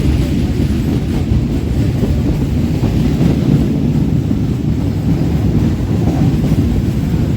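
Electric local train rolling along the track, heard from on board as a loud, steady rumble.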